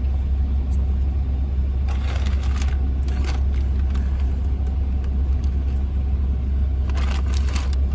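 Car cabin road and engine rumble while driving, a steady low drone, with brief noisy rustles about two seconds in and again near the end.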